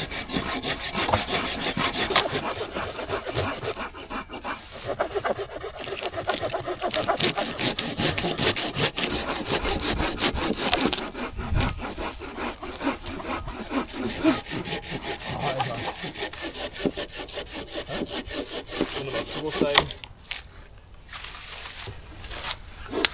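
Hand saw cutting through firewood in quick, steady back-and-forth strokes that stop near the end.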